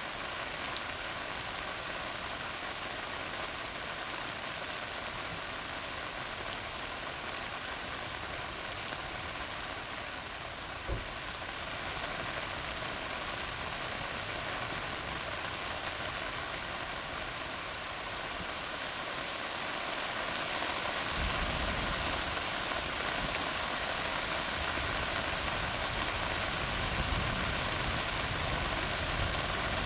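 Steady rain falling on a tar road, a dense even patter. About two-thirds of the way through it grows a little louder and a low rumble of distant thunder comes in underneath.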